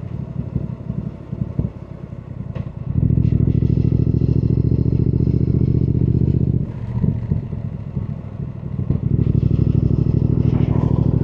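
Triumph Thruxton R's 1200 cc parallel-twin engine on a ride, running with an uneven off-throttle note, then pulling loud and steady under throttle for about three and a half seconds. It eases off again and picks back up loud near the end.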